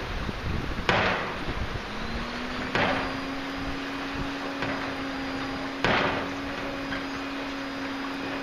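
Heavy rain falling steadily, broken by three loud sudden knocks about one, three and six seconds in. A low steady hum comes in about two seconds in and holds.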